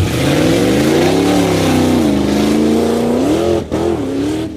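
Truck engine revving hard under acceleration: the pitch climbs through the first second and a half, drops about two seconds in, rises again, and cuts out briefly near the end before settling at a steady high pitch.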